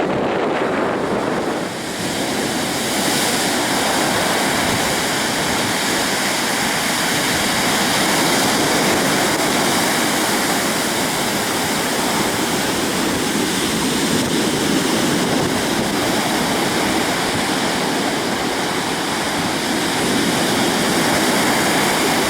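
Waterfall: a steady rush of falling water, with a brief dip in level about two seconds in.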